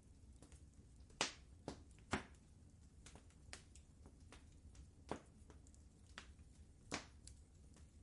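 Wood fire crackling in a fireplace: faint, irregular pops and snaps, a few louder ones standing out, over a low steady rumble.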